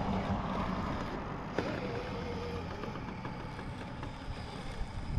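RC crawler truck's electric motor and geared drivetrain whirring as it crawls over an obstacle, with a sharp click about a second and a half in.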